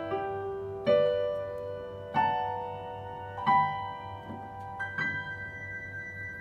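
Piano playing the closing bars of a slow beginner piece: four notes about a second apart, each higher than the one before, the last one, about five seconds in, left to ring out. A steady low hum runs underneath.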